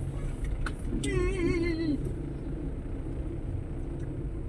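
Steady low rumble of a road vehicle running in traffic. About a second in, a short wavering tone falls in pitch and lasts about a second.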